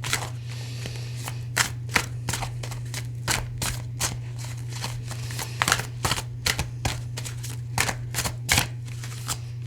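A tarot deck being shuffled by hand, cards slapping and sliding in irregular clicks, about two or three a second, over a steady low hum.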